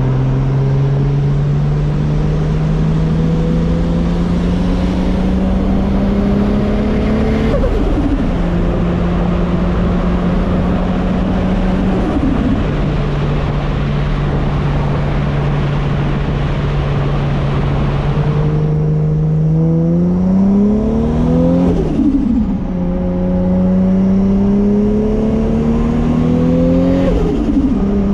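Turbocharged MK4 Toyota Supra's JZ straight-six pulling through the gears. The engine note climbs under acceleration, then drops sharply at each gear change, about four times in all. It holds a steady cruise for a few seconds before another hard pull about two-thirds of the way through.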